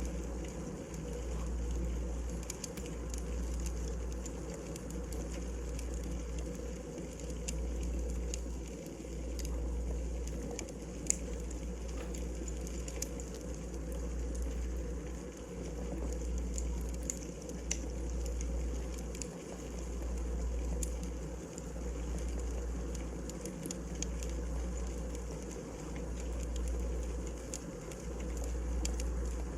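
Firewood burning in a fireplace: scattered sharp crackles and pops over a steady hiss, with a low rumble that swells and fades about every two seconds.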